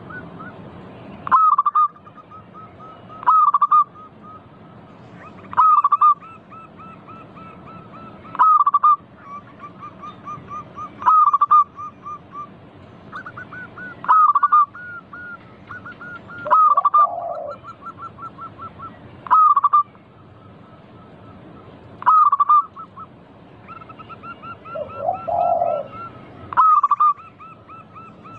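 Zebra doves (perkutut) cooing: a loud cooing phrase comes every two to three seconds, with quick runs of soft repeated coo notes between them. A lower, rougher call sounds twice, in the second half.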